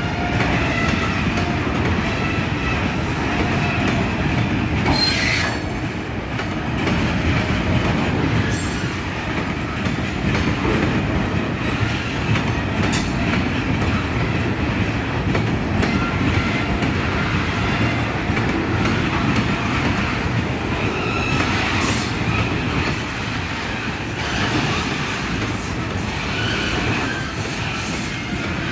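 A goods train of BTPN bogie tank wagons rolling past: steel wheels running on the rails in a continuous rumble. Thin squealing tones come and go, and there are a few clicks over rail joints.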